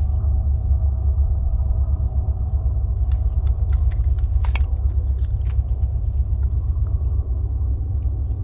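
Wind buffeting the microphone in a steady low rumble, with scattered small clicks and one sharper knock about halfway through.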